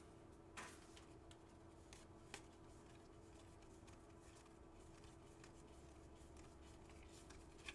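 Near silence: room tone with a faint steady hum, and a few faint clicks and rustles of trading cards being handled.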